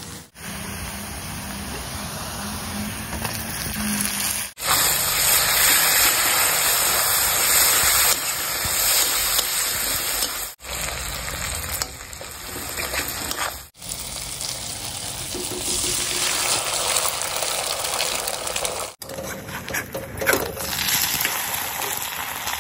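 Food sizzling and spitting in hot oil in a kadai: onions, then tomato masala stirred with a metal spatula, then an egg omelette frying. The sound comes in several short clips joined by abrupt cuts.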